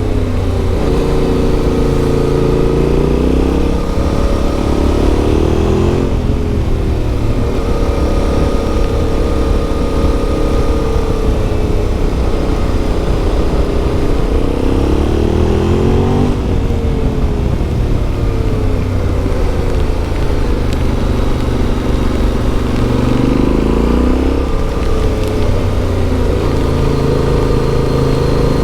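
Yamaha Ténéré 700's 689 cc CP2 parallel-twin engine running under load while the motorcycle is ridden. The engine note climbs and falls repeatedly with the throttle and drops sharply several times as the rider shuts off or changes gear.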